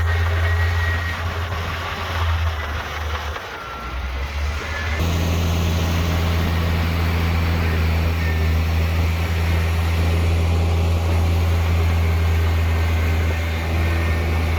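Heavy diesel engine of earthmoving machinery running steadily with a deep hum. The sound dips briefly about four seconds in, then changes abruptly about a second later.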